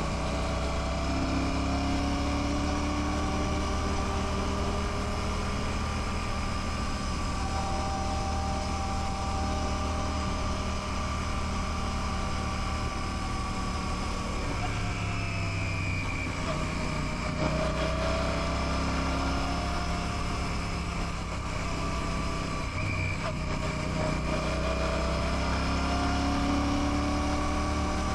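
Royal Enfield Classic 650's 648 cc parallel-twin engine running on the move, its note easing down and picking back up a few times as the speed changes, over a steady rush of road and wind noise.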